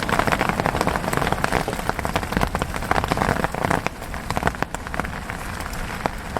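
Rain falling steadily, with many separate drops striking close by as sharp ticks; the drops come thickest in the first few seconds and then thin out a little.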